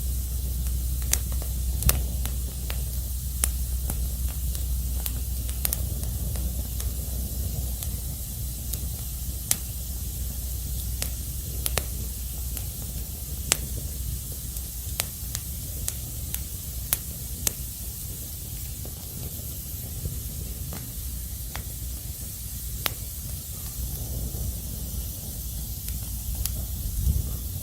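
Wood fire crackling: a steady hiss with sharp pops at irregular intervals, about one every second or two.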